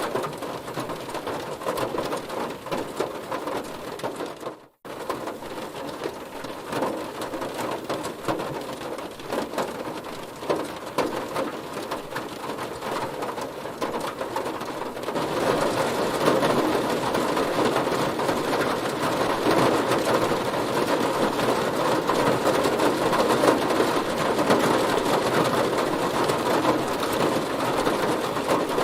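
Heavy rain hitting a car: a dense patter of drops over a steady hiss. It breaks off for an instant about five seconds in, and grows heavier and louder about halfway through.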